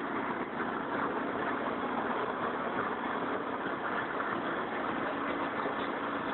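Mil Mi-17V5 helicopter running, its twin turboshaft engines and rotor making a steady dense drone with a low steady hum.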